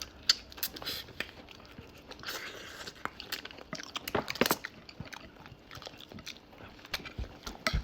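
Close-up eating: food being bitten and chewed with crunching, heard as a run of irregular sharp clicks and short crunches, the loudest about four seconds in.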